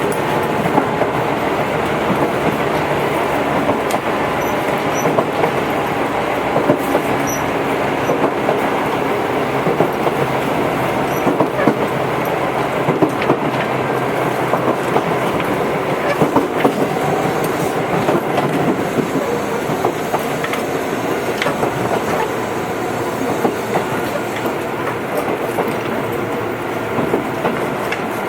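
Tobu 8000-series electric train running between stations, its wheels clicking over rail joints over a steady motor and gear hum.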